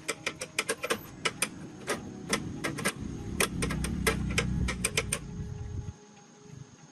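A run of sharp, irregular clicks and light knocks, several a second at times, over a low rumble that builds in the middle and cuts off suddenly about six seconds in.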